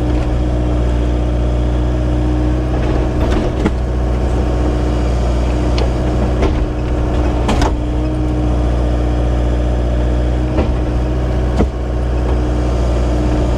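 An engine running steadily at an even speed, with a few short knocks and clunks over it.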